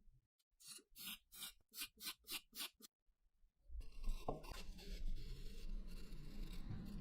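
Hand scraping of a rusty metal gun part: about eight quick rubbing strokes, roughly three a second, then a steadier, denser scraping noise with a low rumble over the last three seconds.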